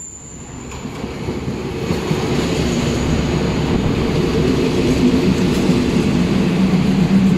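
Train coming in, its rumble with a low hum growing louder over the first two seconds, then running steadily close by.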